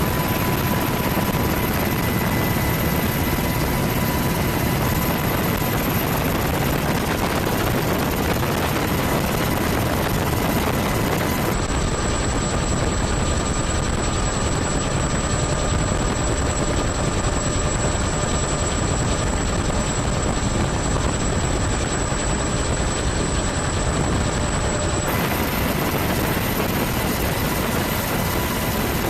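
Steady aircraft engine noise, a dense even rush with a faint steady whine. Its tone changes abruptly about a third of the way in and again near the end.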